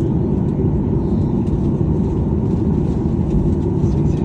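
Steady low rumble of a Boeing 737-800's CFM56-7B jet engines running at ground idle, heard from inside the passenger cabin.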